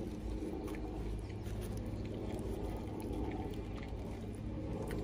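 Chewing a mouthful of saucy chicken burger: soft wet mouth sounds with scattered small clicks, over a low steady hum.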